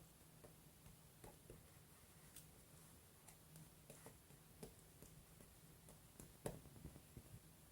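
Quiet paper and stationery handling on a journal: scattered soft taps and small rustles, the loudest about six and a half seconds in.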